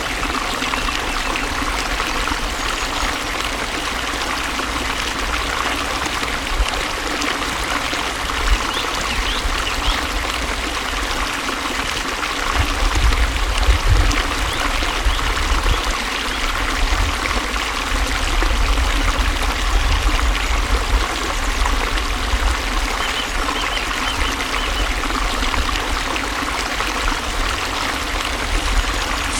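Flowing water running steadily, a continuous rushing trickle, with a low rumble underneath that grows stronger about twelve seconds in.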